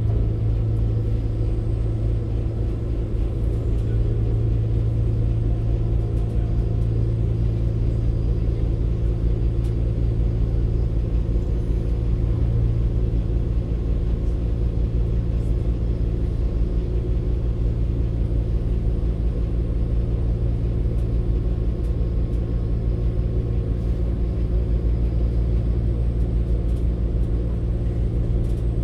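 Class 196 CAF Civity diesel multiple unit heard from inside the carriage: a steady low drone and rumble.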